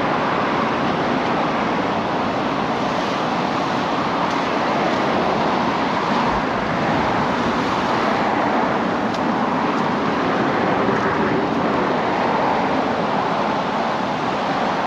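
Ocean surf breaking on the beach: a steady rushing noise that swells and eases slowly.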